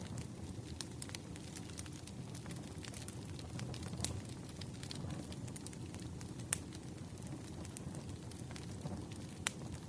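Burning firewood crackling: a steady low rush of flame under scattered sharp pops, the loudest about six and a half and nine and a half seconds in.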